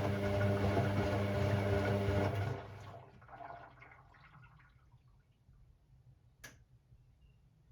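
Washing machine drum motor running with a steady hum, then stopping about two and a half seconds in, in the stop-start tumble of a delicate wash. Water sloshes and drips in the drum during the pause, and a single sharp click comes near the end.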